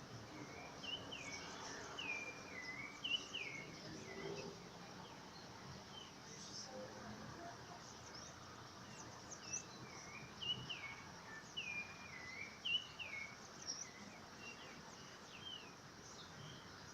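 A bird calling in two series of short falling notes over a steady faint hiss of rain.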